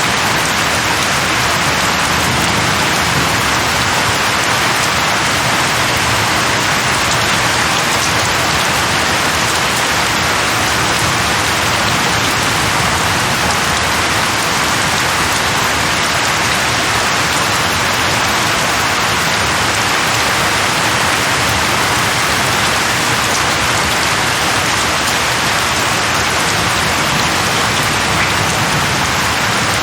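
Steady, even rain falling on tree leaves, a continuous hiss without pauses or thunder.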